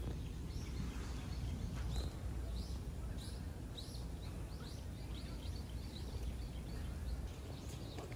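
Small birds chirping: many short, quick, rising chirps, several a second at times, over a steady low outdoor rumble.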